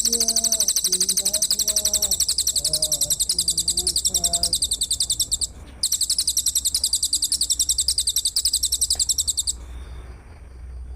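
A high-pitched, rapidly pulsing trill from songbird-training 'masteran' material, with several pulses a second. It breaks off briefly about halfway through, then resumes and stops shortly before the end.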